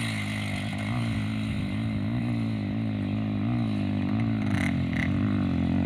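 Trail motorcycle engine working up a dirt hill climb, its pitch wavering up and down with the throttle and growing slightly louder toward the end.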